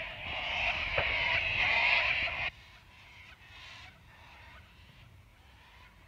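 Loud, harsh bird screeching that stops about two and a half seconds in, followed by a few fainter calls.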